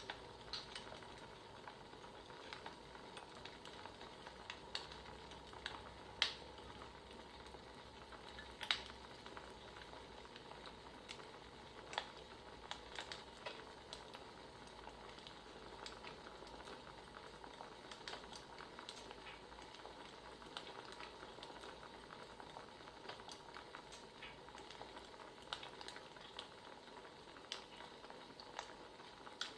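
Wood fire crackling: a steady soft hiss with irregular sharp pops and snaps.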